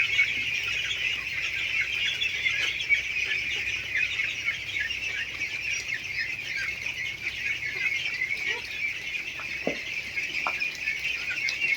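A flock of young Indian runner ducklings peeping continuously, many high calls overlapping into a steady chorus.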